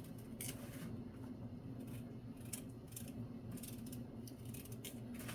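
Knife peeling a potato: irregular short scraping strokes over a low steady hum.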